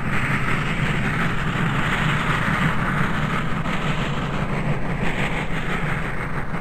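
A steam-hauled excursion train running along the track, a steady even noise without a distinct beat or whistle.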